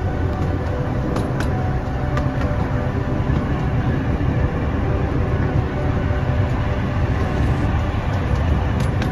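Park ride-on train running steadily, heard from on board: a continuous low rumble of the wheels and running gear on the track, with a few faint clicks and rattles.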